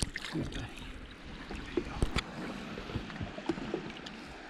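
Water lapping against a small skiff's hull, with light clicks and knocks of handling on board and one sharper knock about two seconds in.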